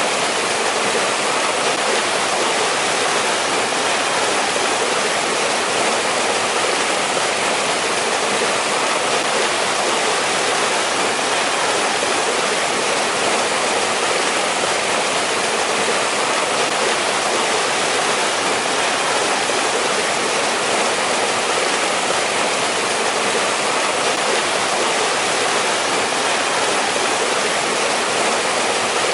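Mountain stream flowing over rocks, a steady, even rush of water with no breaks.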